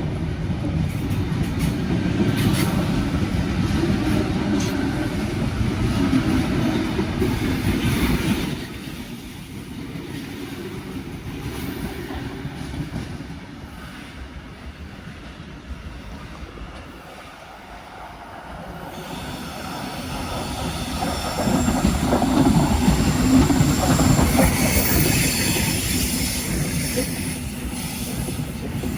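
Train running on rails with a heavy rumble that drops off suddenly about a third of the way through. After a quieter lull, a train sound swells again and grows loud, with high wheel squeal over it near the end.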